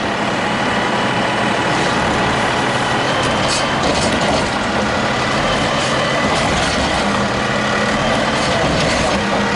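Garbage truck engine running steadily at close range, with a thin steady high whine above it.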